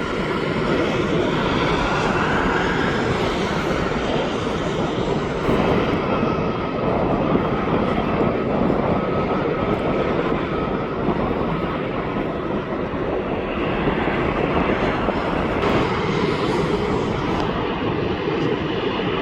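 Jet airliner engines running: a steady rushing noise with a faint high whine.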